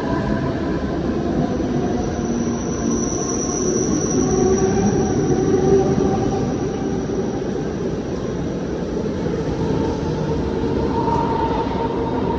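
Mumbai suburban electric local train moving past the platform, its rumble overlaid with several held whining tones, one of them high and lasting a few seconds early on.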